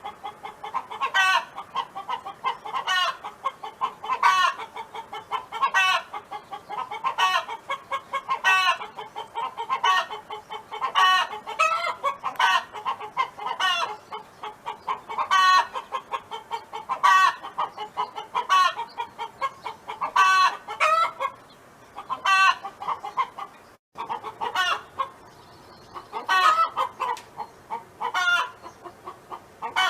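Domestic hen clucking and calling over and over, a louder call about every second and a half with softer clucks between them, and a brief break about two thirds of the way through.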